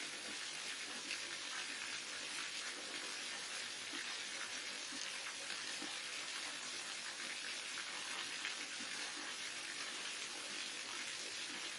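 Waterfall: water falling and splashing steadily, a dense even rush with fine crackles.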